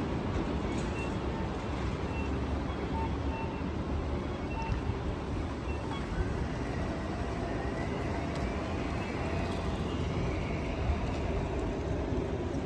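Downtown street in heavy rain: a steady wash of rain and passing traffic. A short electronic beep repeats about once a second through the first half, and a faint rising and falling whine follows near the middle.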